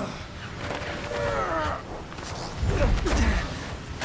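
Film sound mix on a speeding train's roof: a steady low rush of wind and train rumble, with drawn-out metallic creaking and scraping that falls in pitch about a second in. A louder low surge comes near the end.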